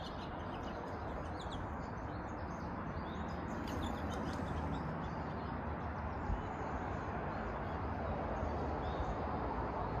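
Birds chirping in the background, short high notes scattered through, most of them in the first couple of seconds and again about four seconds in, over a steady rushing outdoor noise.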